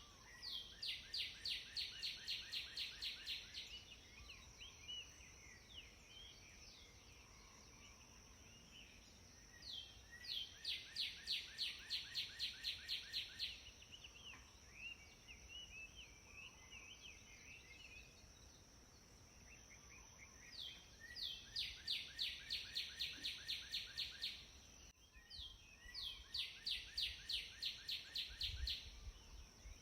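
A songbird singing the same rapid trill four times: each phrase is a run of quick, evenly spaced notes lasting about three seconds, with pauses of several seconds between phrases. A steady high-pitched hum runs underneath.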